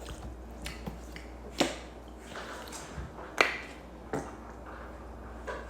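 Eating sounds: five short, sharp smacks and clicks of mouth and hands on food, spaced about a second apart.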